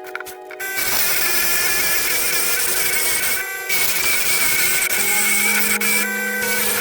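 Electric power tool running with a steady high whine. It starts just under a second in, stops briefly a little past three seconds, then runs again. Background music plays underneath.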